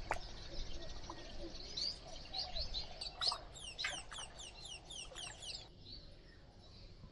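Small bird chirping: scattered high chirps, then a quick run of falling notes, about four a second, that stops near the end.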